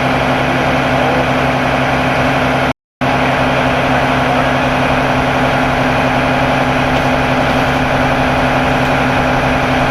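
Fire department ladder truck's diesel engine running steadily at idle, a constant low hum. The sound cuts out completely for a split second about three seconds in.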